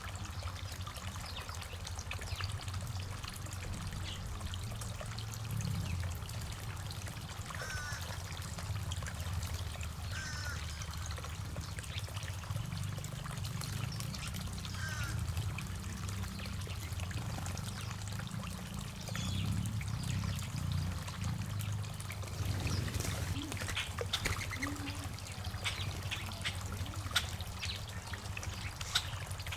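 Water trickling steadily in a garden water feature, with three brief bird chirps in the first half and scattered sharp ticks later on.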